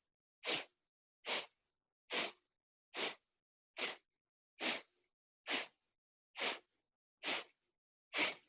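Kapalabhati breathing: ten short, sharp exhales forced out through the nose, a bit more than one a second, each a quick puff of air with silence between the passive inhales.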